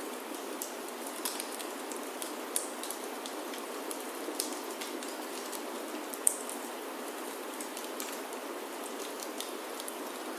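Steady rain falling on a wooden roof, an even hiss, with scattered sharp crackles and pops from a wood fire in a fireplace. The loudest pop comes about six seconds in.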